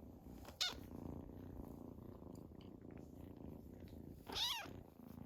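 Two-month-old Scottish Fold kitten purring steadily, with two short, high mews: a brief one about half a second in and a slightly longer one near the end.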